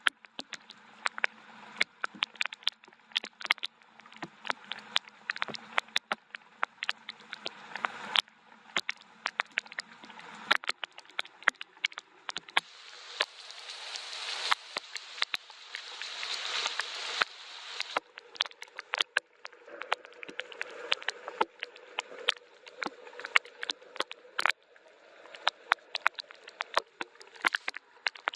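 Rain falling, heard as many separate drops tapping irregularly on a hard surface over a soft hiss of rain that swells for several seconds in the middle.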